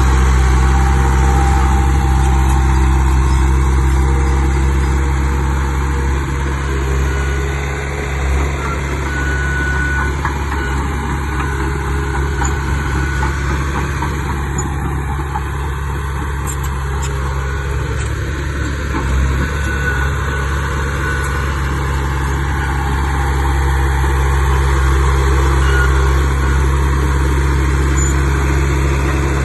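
Heavy diesel engine of earthmoving machinery running steadily under light load, a deep, even drone with only small rises and dips in level.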